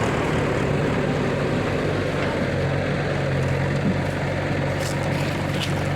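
Diesel engine of earthmoving machinery running steadily at an even speed, with a couple of faint clinks near the end.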